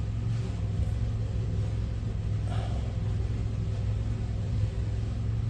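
Engine oil pouring steadily from an oil-pan drain hole into a catch container, over a constant low hum.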